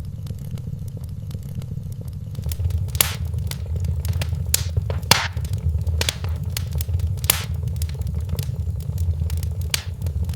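Wood fire burning in a fireplace: a steady low rumble of flame with irregular crackles and several sharper pops.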